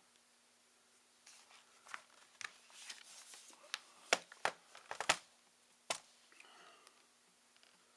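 Hands working on a ThinkPad T61 laptop's plastic casing during disassembly: scattered rustling and scraping, then a quick run of sharp plastic clicks and taps about four to five seconds in, and one more click shortly after.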